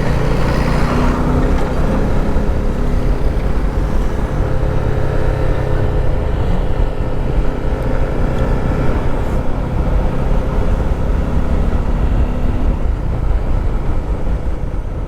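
A vehicle engine drones steadily at an even pitch, with road or wind noise over it.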